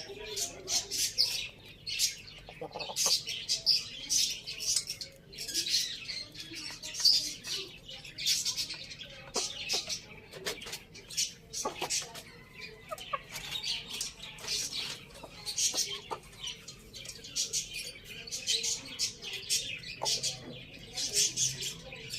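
Chickens feeding: a dense run of short, sharp, irregular pecking and scratching sounds with occasional soft bird calls.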